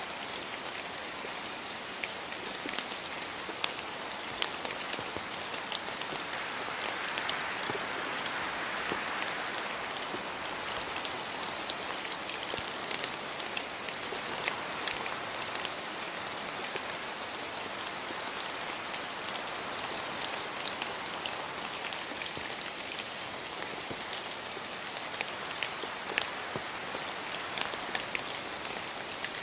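Steady rain falling on surfaces in a yard, a dense hiss with many individual drop splats and ticks.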